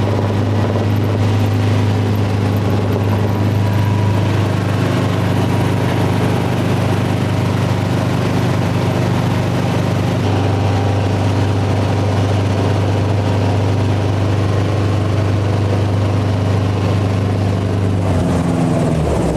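Helicopter engine and rotor running steadily, a loud low hum with steady overtones. About a second before the end the pitch steps down.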